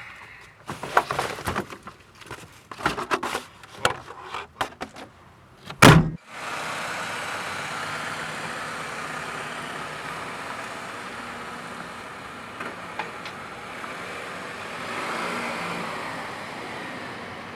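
A quick run of sharp knocks and thuds, then one loud thump about six seconds in, followed by a steady rushing noise that swells slightly near the end.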